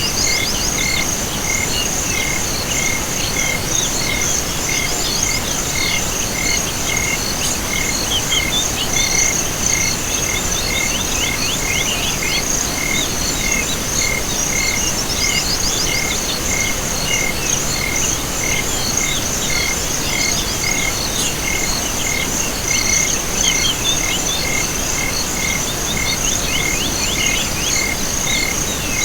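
Night chorus of insects and frogs: a steady high-pitched insect trill, a regular call repeating about twice a second, and scattered bursts of rapid chirps.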